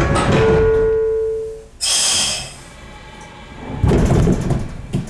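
Door-closing sequence on a 115-series electric train: a steady door warning tone sounds until under two seconds in, then a short burst of air hiss as the pneumatic doors close. About four seconds in, a louder rough rumbling starts.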